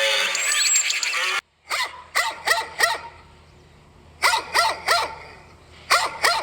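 For the first second or so, cattle are lowing; this stops abruptly. Then a dog barks in three quick runs of three or four short barks.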